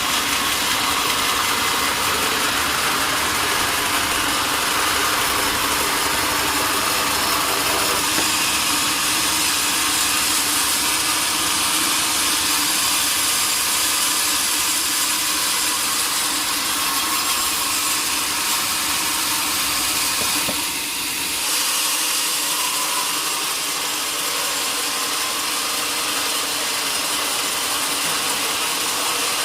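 Sawmill machinery running steadily as a log is sawn. There is a brief dip about two-thirds of the way through, after which the low rumble drops away.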